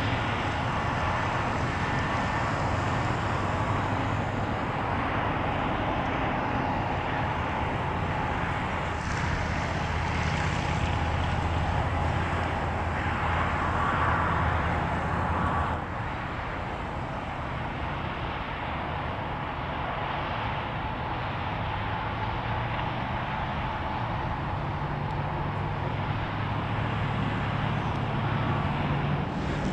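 Boeing 787-8 Dreamliner's jet engines running at taxi power as the airliner taxis close by: a steady rumble with a whine, dropping slightly in level about halfway through.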